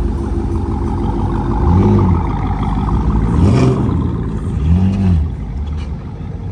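A car engine idling, blipped three times: each rev rises in pitch and falls straight back to idle.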